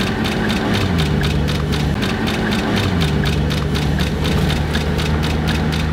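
Vehicle engine running inside the cabin of a moving car, its steady low tone shifting in pitch about one and three seconds in, with a rapid even pulsing of about five beats a second over it.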